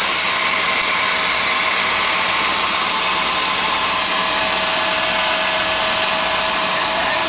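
Helicopter in flight: a steady, loud rush of turbine and rotor noise with a high, even whine running through it.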